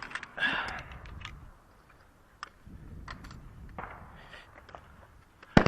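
A few faint clicks and handling noises, then a single loud shotgun shot near the end, its report echoing briefly.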